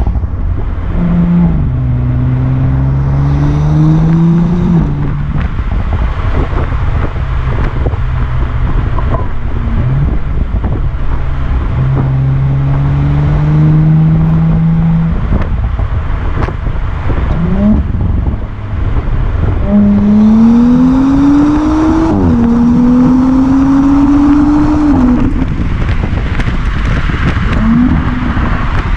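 Audi S4 Avant (B9) V6 engine accelerating hard in several pulls. Its pitch climbs and then drops sharply at upshifts, about five seconds in and again past twenty seconds, with a steadier cruising stretch in between, all over heavy road and wind rumble.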